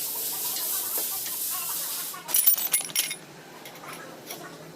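A steady high hiss, like spray or compressed air, stops abruptly about two seconds in. A quick clatter of metal clinks follows, like small metal parts or tools being dropped or handled.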